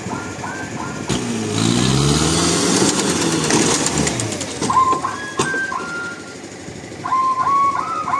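A motor revs up and winds back down over about three seconds, with a hiss on top. Short, repeated high chirping calls come before it and again after it.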